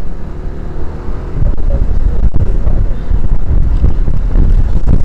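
Wind buffeting the action camera's microphone on a moving motorbike, a dense fluttering rumble, with the motorbike's engine running underneath.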